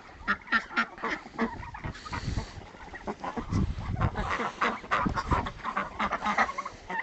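Domestic ducks and geese feeding, a quick, uneven clatter of bills in the feed with low calls now and then.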